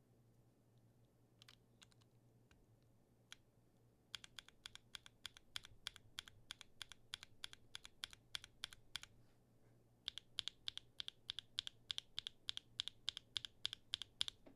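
Typing on a Matrix 8xv 3.0 mechanical keyboard fitted with tactile switches and an aftermarket POM plate: a few single keystrokes, then two runs of fast, even typing with a pause of about a second between them.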